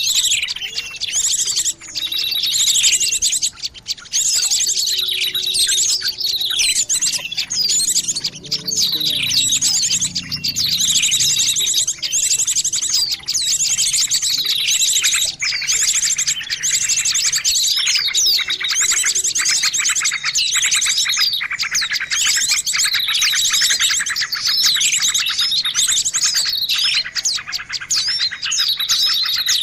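A dense, noisy chorus of many small birds chirping, trilling and calling over one another without pause, a mixed-species bird-lure recording.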